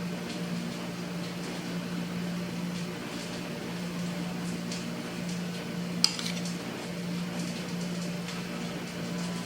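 A steady electrical hum from a running appliance, with light clicks and one sharp clink of a dish or utensil about six seconds in.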